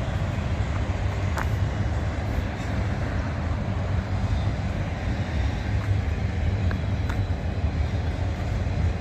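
Freight cars rolling past on the rails: a steady low rumble of wheels on track, with a few faint clicks from the wheels.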